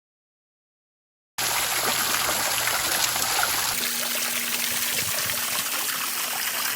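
Silence, then about a second and a half in a steady rushing sound of running water starts abruptly.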